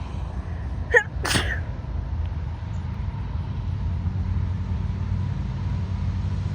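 Union Pacific train's diesel locomotives running steadily as a low hum, growing slightly louder. About a second in, a person sneezes once, sharp and loud.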